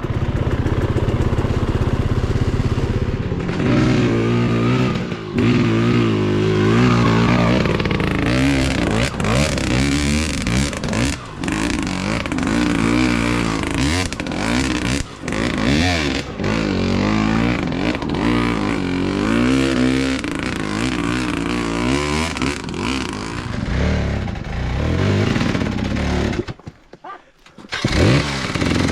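Dirt bike engine revving up and falling back over and over as it is ridden over rough, rocky ground, with scattered knocks and clatter. The sound drops away for about a second near the end, then the engine comes back.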